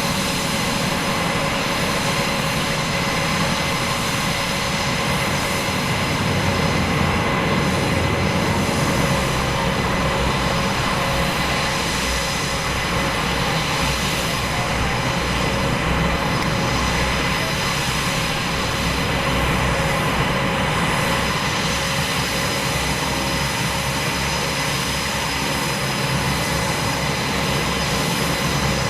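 Aircraft engines droning steadily, with no breaks.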